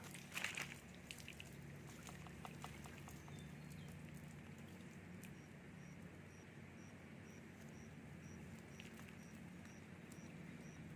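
Water splashing and dripping from a lifted fishing net in the first few seconds, faint. A steady low hum follows, and from about halfway through a short high chirp repeats about twice a second.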